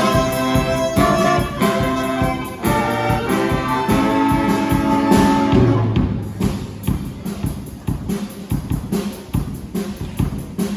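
Band music with horns and a drum kit. About halfway through, the sustained horn chords stop, leaving mainly a steady drum beat over the bass.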